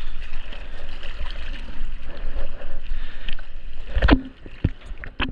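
Water splashing and sloshing around a surfer's GoPro in the sea, with wind buffeting the microphone; a loud thump about four seconds in.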